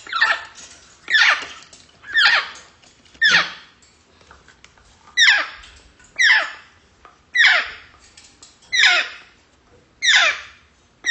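Grey parrot giving the same short squeaky call over and over, about once a second, each call falling quickly from high to low pitch, with a brief pause a little before the middle.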